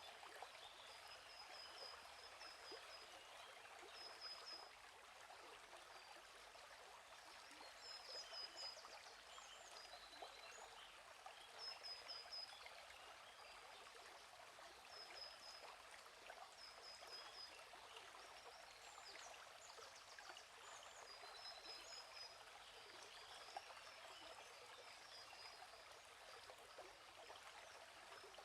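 Gently flowing stream, a steady trickling wash of water, with a small bird repeating a short high chirping trill every few seconds.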